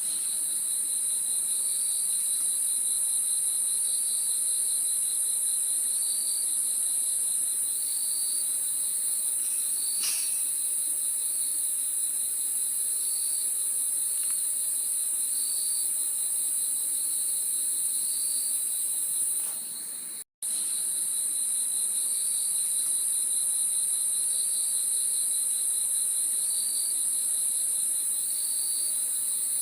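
Crickets chirping without a break: a loud, steady high trill over a lower, pulsing chirp that swells about every second and a bit. The sound cuts out for a moment about two-thirds of the way through.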